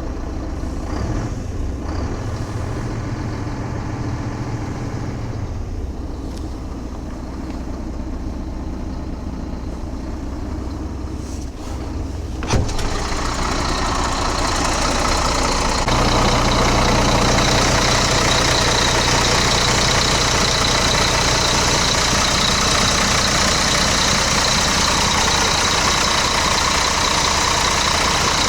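Scania G380 truck's 11.7-litre turbodiesel engine running at idle. A sharp click comes about halfway through, after which the sound grows fuller and hissier and steps up in loudness a few seconds later.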